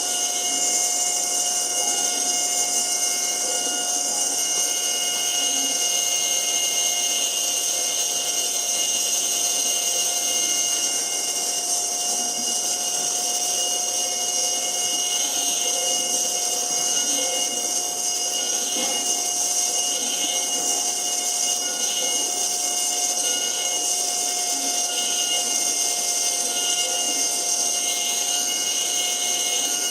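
CNC machine spindle running steadily with a high whine while its cutter mills a wooden ring insert.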